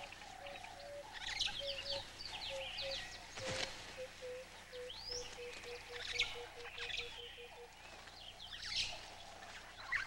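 Wild birds singing and chirping. One bird repeats short, low cooing notes that quicken into a fast run and stop about three-quarters of the way through.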